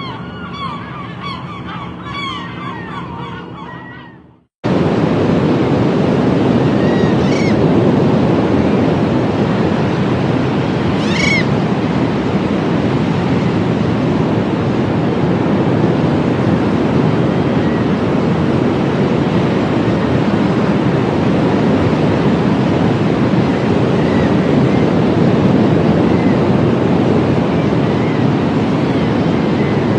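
A flock of seagulls calling over one another, fading out about four seconds in. After a sudden cut comes a loud, steady rush of surf, with two gull calls breaking through a few seconds later.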